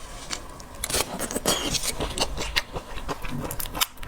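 Close-miked eating of seafood: irregular clicks and crackles of shell being broken open and picked apart, mixed with chewing.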